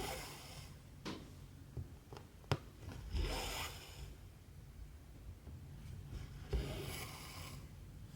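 Cotton embroidery thread drawn through cross-stitch fabric: a rasping pull at the start, another about three seconds in and a third about six and a half seconds in, with a few small ticks between them.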